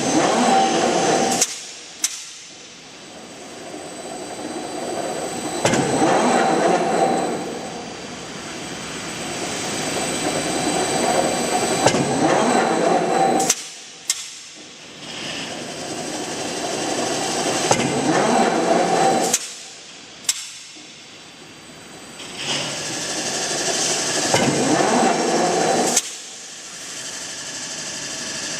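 J58K-630 electric screw press working through repeated strokes: each time the motor-driven machine noise swells, then the ram comes down with a sharp bang and the noise drops away, often with a second clank just after. Four blows, the later ones about six seconds apart.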